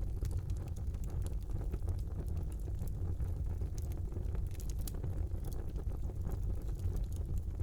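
Wood fire burning in a brick fireplace: a steady low rumble of flames with frequent small crackles and pops from the burning logs.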